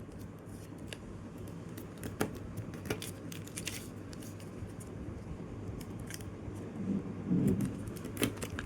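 A sheet of paper being folded and creased by hand: scattered sharp crinkles and rustles.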